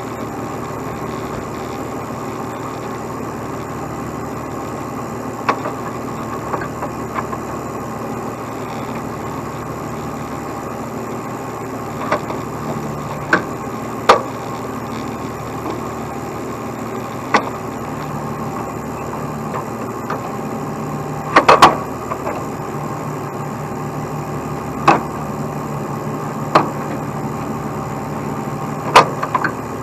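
Heavy truck diesel engine idling steadily, with sharp knocks every few seconds, several of them in a quick cluster about two-thirds of the way through.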